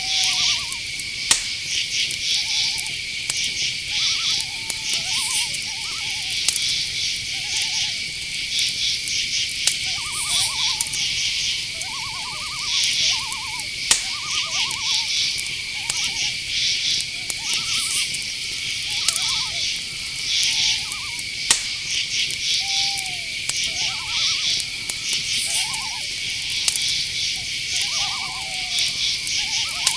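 Night-forest chorus: crickets hold a steady high drone with pulsing trills over it, while short owl hoots repeat throughout. A few sharp clicks stand out, one about a second in and one around two-thirds of the way through.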